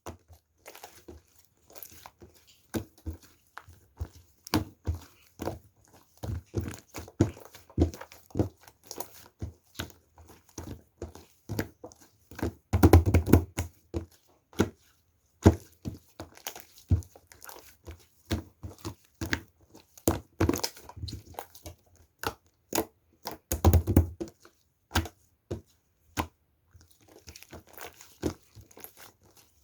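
Irregular handling noises: many small clicks, taps and crinkling sounds, with two louder, heavier clusters of knocking about 13 seconds and 24 seconds in.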